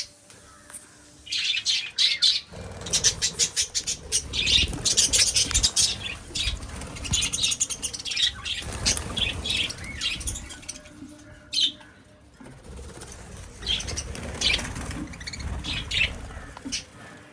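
A colony of budgerigars chirping with many short, high calls, over stretches of wings fluttering.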